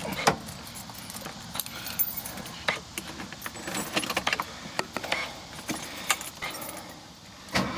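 Keys jangling with scattered light clicks and rattles, as car keys are handled before the engine is started.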